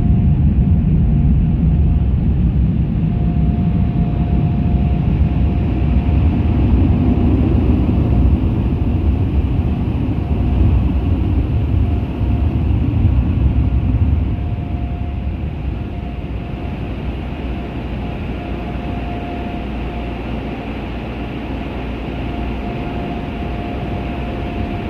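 Automatic car wash machinery blasting the truck, heard from inside the cab: a heavy, steady rumble strong enough to make the whole truck vibrate, with a faint steady whine. The rumble eases about halfway through.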